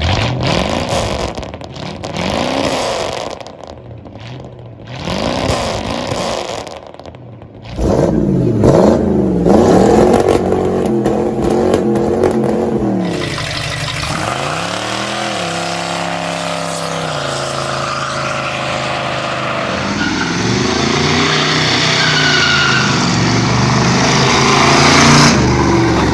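A V8 car engine revving in three short blips, then running hard as the car accelerates, its pitch climbing and dropping back several times through gear changes.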